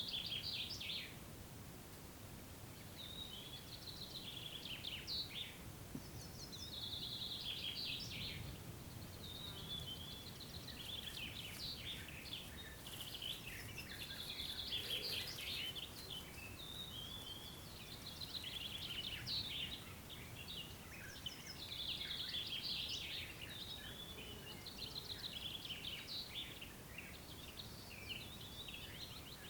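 Songbirds singing short, trilled phrases one after another every second or two, over a faint low rumble of wind.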